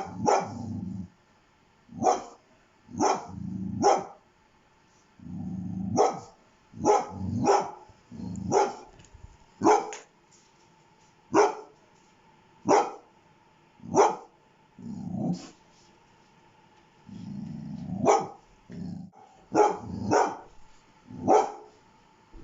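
A dog barking in single sharp barks, a second or two apart, with low growls between several of them.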